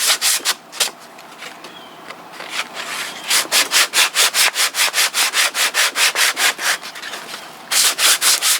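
A stiff strip of coarse belt-sanding paper is rasped back and forth inside a saw kerf in maple, in quick scratchy strokes of about four a second, with brief pauses about a second in and again near the end. The slot is being widened so a saw blade's tang will sit snugly in the handle.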